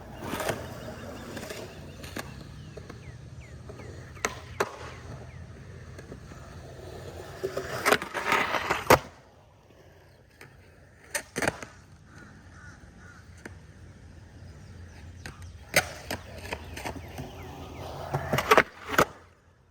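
Skateboard wheels rolling on concrete with sharp board clacks and impacts. A long roll builds to a cluster of loud clacks about eight to nine seconds in, then stops. Scattered single clacks follow, and a second roll ends in clacks near the end.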